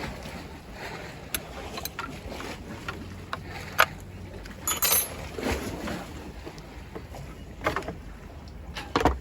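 Scattered clicks, knocks and clunks of tools and metal parts being handled while a throttle control head is taken off a yacht's steering pedestal, over a steady low background rumble; one sharp crack about four seconds in.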